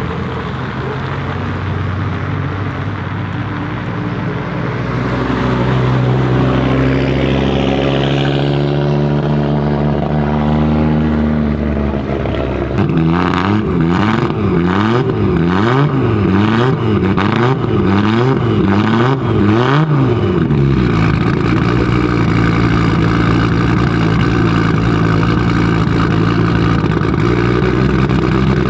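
Audi Sport Quattro S1 E2's turbocharged inline five-cylinder engine running, its pitch climbing over several seconds. It is then revved up and down about once a second for several seconds, with crackles from the exhaust, before settling to a steady run.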